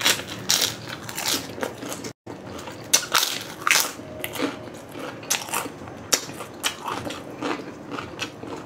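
Chicharon (deep-fried pork rind) being bitten and chewed: an irregular run of crisp crunches, with a momentary dropout of all sound about two seconds in.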